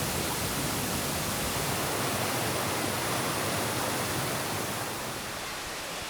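Steady rushing roar of a waterfall, even and unbroken, turning a little quieter and duller about five seconds in.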